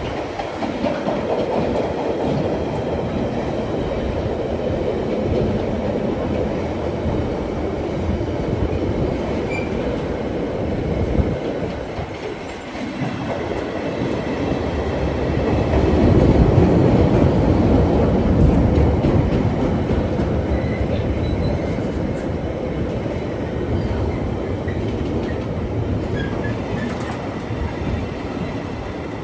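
A train running past on the line: a continuous loud rail rumble of wheels on track that swells about halfway through and then eases off again.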